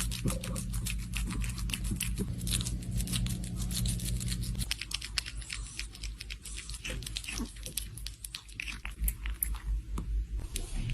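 Crunchy chewing: many quick, crisp crunches in an uneven run, over a low steady hum that stops a little before halfway.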